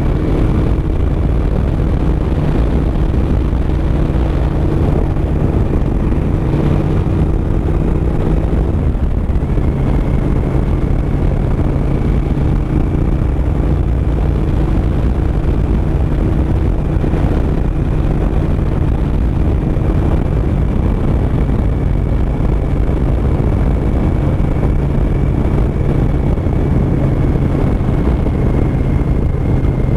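Suzuki SV1000S 996 cc V-twin engine pulling steadily at road speed, with wind rushing over the microphone. Its engine note steps down about nine seconds in.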